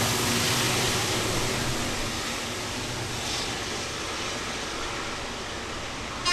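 A passing train's rolling noise dying away as a steady hiss, slowly getting quieter.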